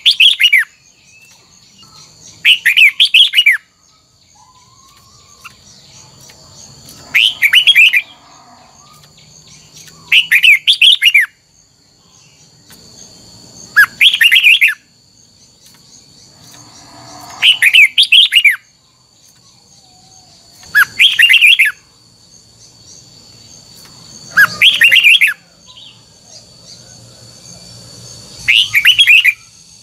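Red-whiskered bulbul singing: short, loud warbled phrases of about a second each, repeated about every three to four seconds, nine times in all. A steady high thin tone runs underneath.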